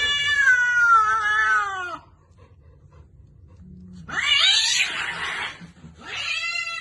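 Domestic cat meowing: a long drawn-out meow that slides down in pitch. After a short pause comes a rougher, harsher yowl, then a second long falling meow near the end.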